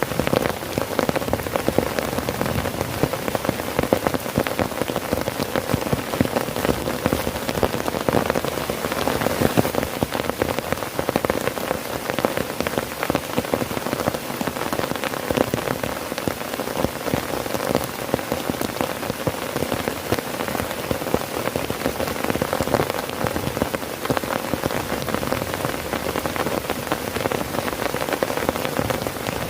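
Heavy rain falling on a tent, a steady, dense patter of drops.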